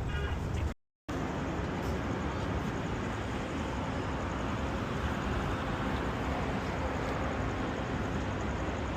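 Steady outdoor street ambience of road traffic, with a brief dropout to silence about a second in.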